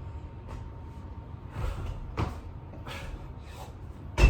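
A person doing burpees: several short, breathy exertion sounds and thuds of hands and feet on the floor, with one loud thump just after four seconds in.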